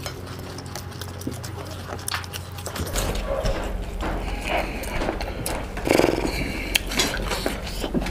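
Close-miked chewing and mouth clicks of people eating singju salad by hand, with a quick run of smacking clicks throughout and louder chewing or swallowing sounds later on, loudest about six seconds in.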